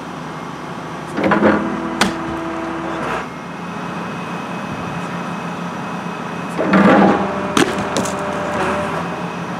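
Excavator running steadily with its hydraulics working, and two bouts of crunching and cracking impacts, one about a second in and one near seven seconds, each followed by a sharp crack.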